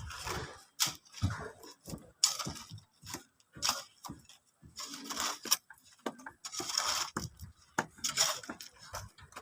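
Irregular knocks, clinks and short scraping sounds of hand work on a construction job, about one every second.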